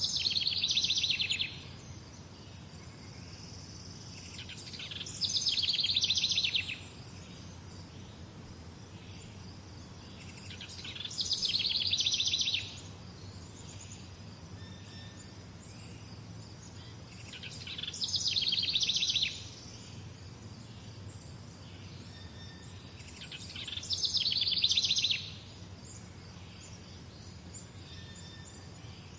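A songbird repeating the same short trilled song five times, about every six seconds; each song is a rapid run of notes that grows louder and stops abruptly after about a second and a half. A steady low hum runs underneath.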